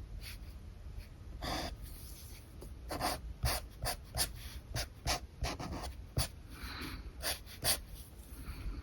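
Alcohol marker nib stroking across paper: a run of short scratchy strokes, a few close together in the middle and more spread out near the end.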